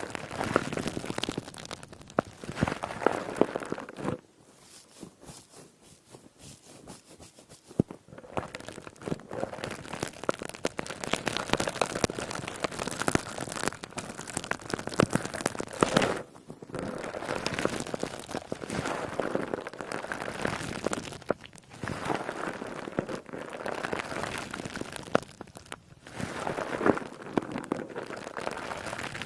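Squishy, crackly ASMR sponge squeezed and worked close to the microphone, giving a dense run of crackling and crunching, softer for a few seconds about four seconds in.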